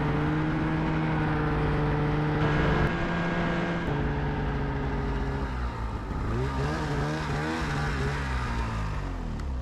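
Engine running at a steady pitch with a few abrupt changes, then revving up and down several times in the second half.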